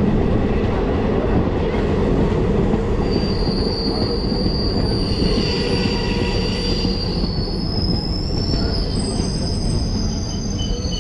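DMU passenger train running, a steady rumble of the coach on the track heard at an open window, with a high metallic squeal setting in about three seconds in and wavering on as the train brakes for a small halt.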